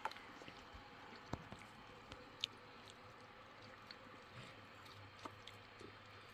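Near silence, with a faint steady background and a few scattered small clicks and taps, the sharpest about two and a half seconds in.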